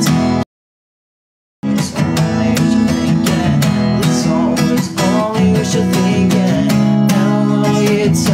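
Acoustic guitar being strummed. The sound cuts out completely for about a second shortly after the start, then the strumming resumes.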